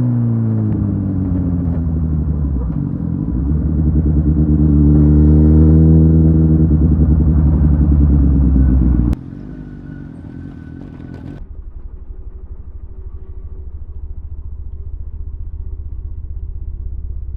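Inline-four sport motorcycle engine running under way: the revs fall off, then pick up again and hold a steady pitch. About nine seconds in the sound cuts off abruptly, leaving a much quieter steady low rumble.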